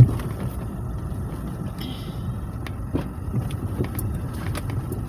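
Steady low rumble of a moving car heard from inside the cabin, with a single thump at the very start and a few faint clicks.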